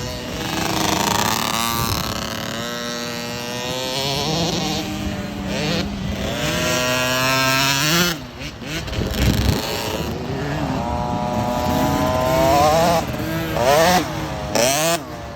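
Husqvarna dirt bike engine under hard throttle, its pitch climbing again and again and dropping back, as on gear changes and with the throttle chopped about eight seconds in and near the end.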